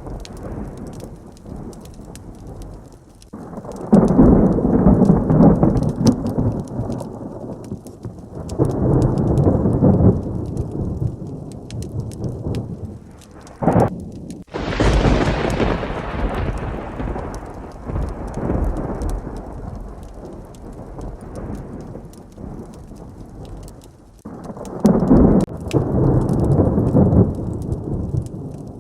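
Thunderstorm with steady heavy rain: thunder rolls in low, rumbling swells several times. About fourteen seconds in comes a sharp crack and a loud close clap that rumbles away slowly.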